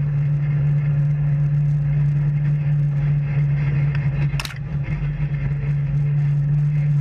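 Engine of an off-road vehicle running with a steady low drone on the trail. There is a sharp click about four and a half seconds in, where the sound briefly drops.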